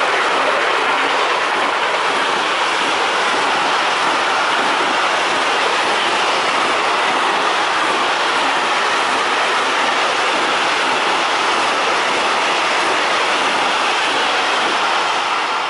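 Intermodal freight train of pocket wagons loaded with lorry semi-trailers passing close at speed: a steady, loud rush of steel wheels rolling on the rails, dropping a little near the end as the last wagons go by.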